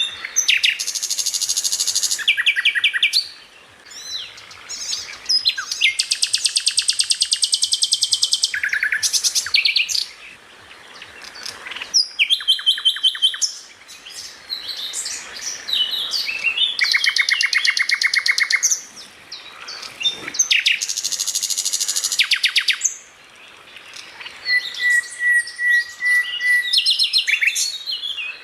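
A songbird singing a loud, varied song of very fast trills and rattling note series. It comes in phrases of two to three seconds separated by short pauses, with a thin whistle-like trill near the end.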